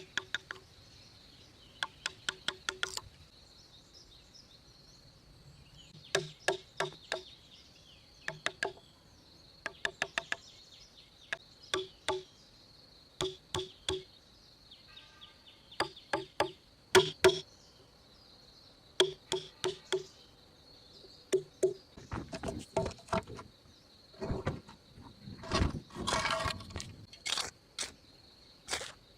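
Repeated sharp knocks in quick groups of two to five, each with a short ringing tone, like hand-tool strikes on wood, over a steady high insect drone. From about 22 to 27 seconds in, louder, longer rasping strokes.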